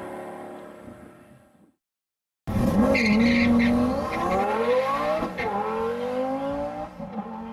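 A twin-turbo Lamborghini Gallardo Spyder's V10 fading away into the distance, dying out before two seconds in. After a short silence a race car engine cuts in loud and winds up steadily in pitch, with one drop like a gear change about halfway, and a high squeal near its start.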